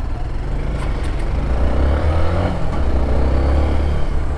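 Motor vehicle engine running with a deep, steady rumble, swelling as it is revved about two seconds in and again near the end.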